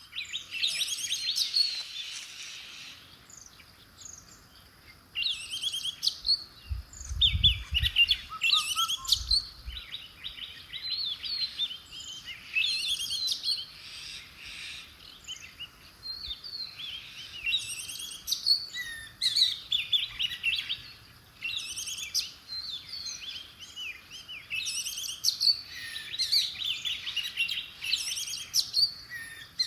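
Songbirds chirping and singing in bursts of rapid, repeated phrases, with a brief low thump or rumble about seven seconds in.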